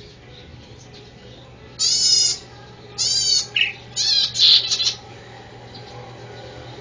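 A bird chirping in three loud bursts of rapid, repeated high notes, about two, three and four seconds in, over a steady low hum.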